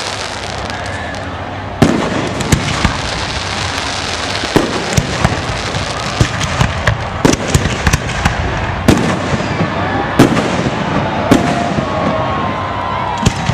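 Aerial fireworks going off in quick, irregular succession, a stream of sharp bangs and crackling pops. A louder burst lands about two seconds in.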